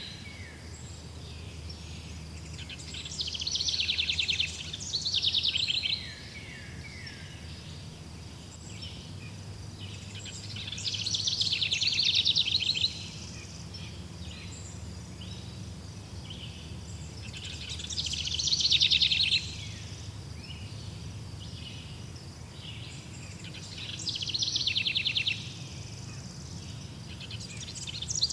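A songbird repeating a short, fast trilled song phrase about every six seconds, each phrase lasting a second or two and falling in pitch at the end, over a steady low background rumble.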